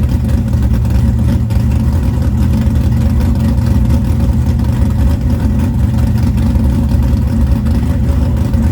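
Car engine running steadily close by, loud and mostly low-pitched with no revving.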